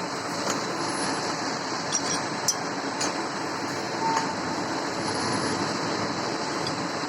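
A machining machine running steadily, with a few sharp metallic clicks and ticks over the noise.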